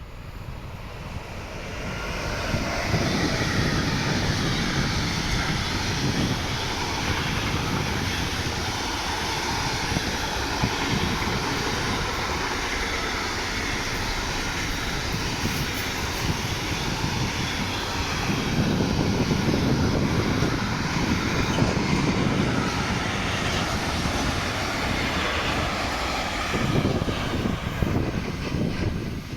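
A train passing at speed: a loud, steady rushing noise that builds over the first couple of seconds, holds for about twenty-five seconds and falls away near the end.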